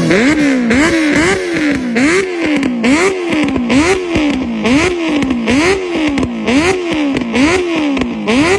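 Motorcycle engine revved in quick repeated throttle blips, each a sharp rise in pitch that falls back, about one every three-quarters of a second.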